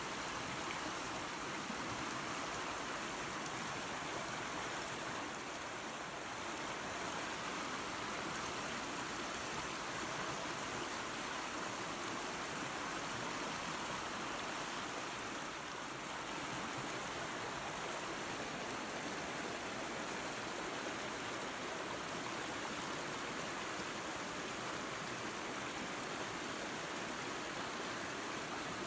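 Creek water rushing and splashing over a small waterfall, a steady, even rush.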